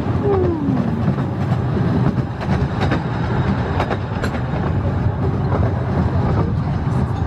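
Rumble of a narrow-gauge railway carriage running along the track, with scattered sharp clicks from the wheels and rails.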